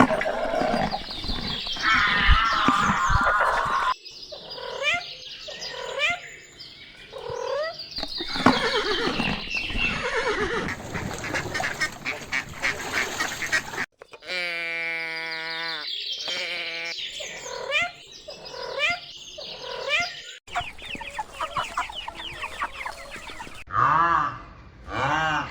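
A series of farm-animal and bird calls, with repeated pitched cries and clucking, cut together from several separate recordings that change abruptly every few seconds.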